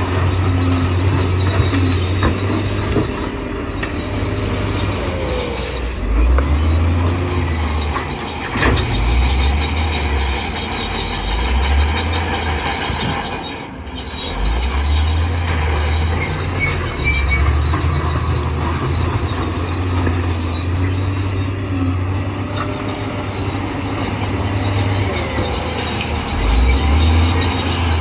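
Crawler bulldozer at work: its diesel engine runs loud, rising and falling with the load, while the steel tracks squeal and clank.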